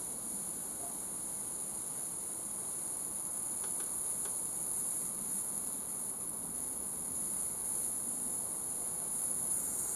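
Steady high-pitched hiss of propane flowing from a canister into a Mamod SP8 steam engine's burner gas tank during filling.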